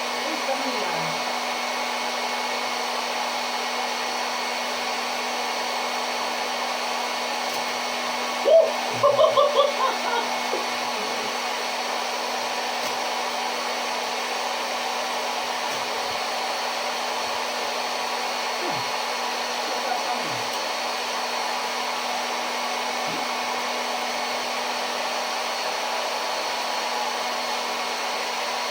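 Small electric motor spinning the fan of a homemade jet-engine-style blower, running steadily with a hum and a rush of air. A few short, higher-pitched sounds break in about nine seconds in.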